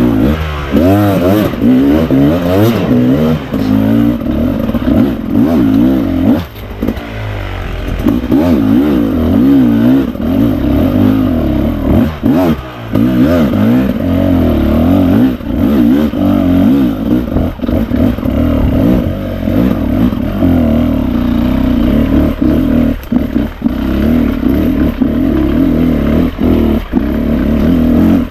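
Beta RR 300 two-stroke single-cylinder enduro motorcycle being ridden, its engine revving up and down as the throttle is worked, dropping off briefly about six and twelve seconds in. Scattered clattering knocks sound over the engine.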